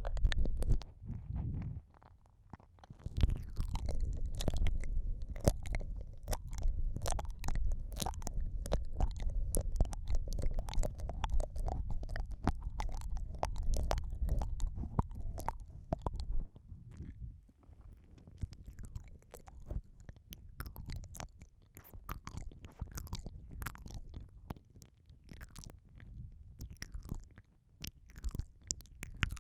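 ASMR ear-eating mouth sounds close on the microphone: dense wet clicks, smacks and licks. A low muffled rumble runs under them until about halfway, after which the clicks grow sparser and quieter.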